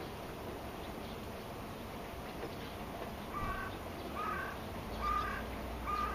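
Steady rain, with a bird giving four short calls at an even pace, about one a second, from about halfway in; the calls are the loudest part.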